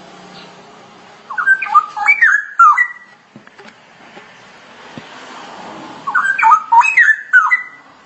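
Straw-headed bulbul singing two loud, bubbling, whistled warble phrases, each about two seconds long, the second starting about six seconds in.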